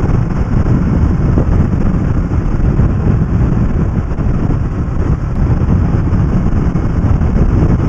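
Kawasaki ER-6f parallel-twin motorcycle riding at a steady speed, its engine drone mixed with a loud, even rush of wind and road noise on the rider-mounted camera's microphone.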